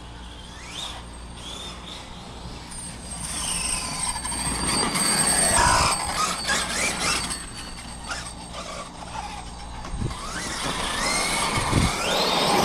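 Electric drive of a Losi 5ive TE 3.0 1/5-scale RC desert truck being driven hard: a motor whine rises and falls several times as the throttle is worked, over a rough background rush, with a long rising whine near the end.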